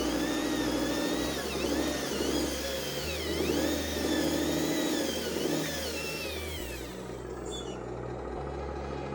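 Radio-controlled model truck's electric motor and gears whining, the pitch rising and falling again and again as the throttle is worked on a slippery climb, dying away about seven seconds in.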